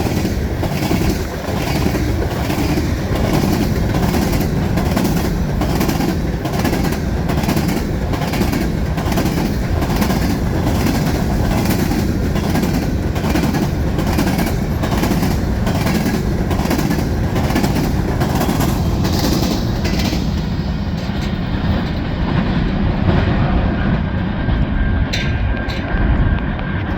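Freight cars of a manifest train rolling past, their wheels clicking over rail joints about twice a second over a heavy rumble. About two-thirds of the way through, the clicking and the hiss fade out and a duller rumble is left.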